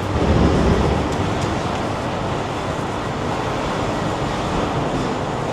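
City street ambience of steady traffic noise, with a louder low rumble swelling and fading in the first second, like a vehicle going by.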